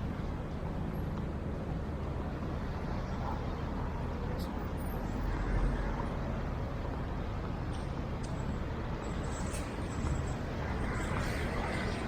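Road traffic: vehicle engines and tyres rumbling steadily, swelling louder a little after halfway as a vehicle passes close.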